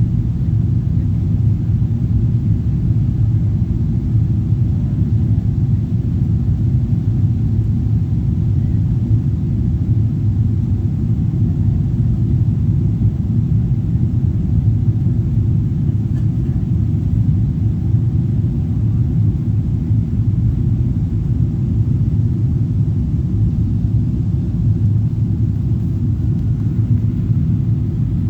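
Steady low rumble of a jet airliner's engines and rushing air, heard from inside the passenger cabin, holding at an even level with no change in pitch.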